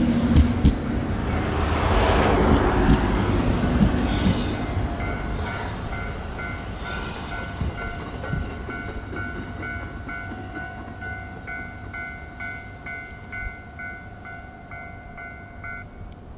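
JR Hokkaido 721-series electric train rumbling and clicking over rail joints, loudest in the first few seconds and then fading as it draws away. From about five seconds in, an electronic alarm beeps on and off about twice a second, then cuts off abruptly near the end.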